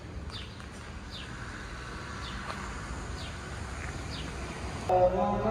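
A small bird repeating short, falling, high chirps about once a second over steady low background noise. Near the end, a sung or chanted voice starts abruptly.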